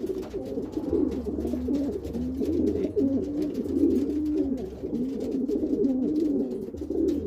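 Domestic pigeons cooing without a break, one rolling coo after another and overlapping, the territorial cooing of cock birds squaring off in a fight.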